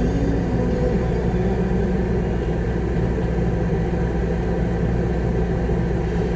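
Concrete mixer truck's diesel engine running steadily during a pour, heard from inside the cab as an even, low rumble.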